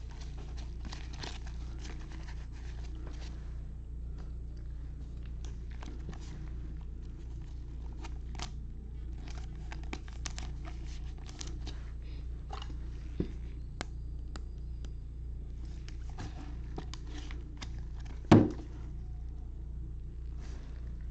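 Trading card pack wrappers crinkling and tearing, with scattered crackles and clicks as cards are handled. One loud thump comes near the end, over a steady low hum.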